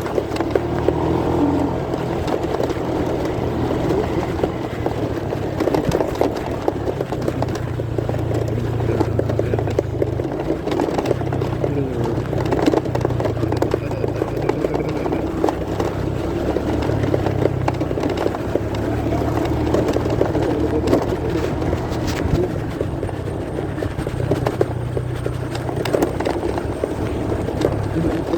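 Motorcycle riding noise picked up by a phone inside a pocket: a muffled steady engine and road rumble, with frequent crackles of fabric rubbing over the microphone.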